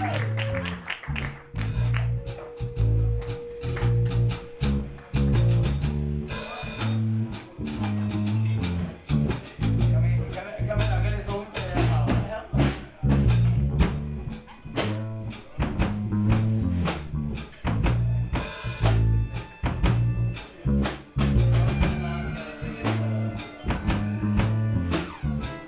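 Live gypsy rock band playing an instrumental passage: a driving drum-kit beat over a pulsing bass line, with guitar.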